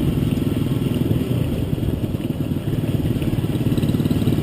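A motor vehicle's engine running steadily close by, a continuous low rumble.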